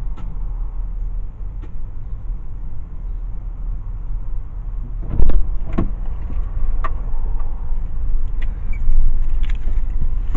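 Car cabin noise: a steady low road and engine rumble, with scattered clicks and knocks and one louder thump about five seconds in.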